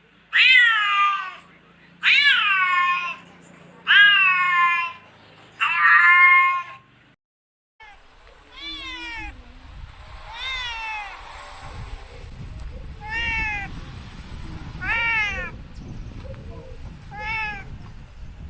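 Domestic cat meowing repeatedly. First come four loud, drawn-out meows about two seconds apart; after a brief silent break, fainter, shorter meows follow every couple of seconds over low background noise.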